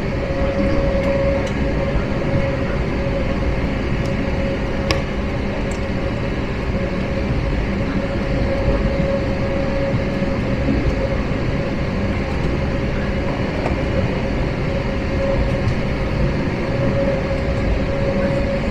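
Steady cabin noise inside an Airbus A321-231: the IAE V2500 jet engines and rushing air as an even roar, with a steady mid-pitched hum running through it.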